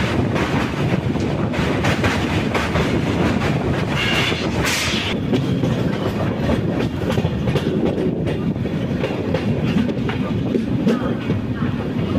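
Passenger express train running, heard from on board: a steady rumble of the coaches with the wheels clicking over the rail joints, and a brief louder hiss about four seconds in.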